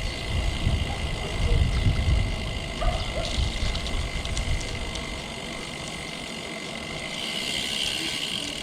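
Road-riding noise from a bike-mounted or rider-worn camera: gusty rumble, likely wind on the microphone mixed with traffic, that eases after about five seconds, with a few faint clicks in the middle and a light hiss near the end.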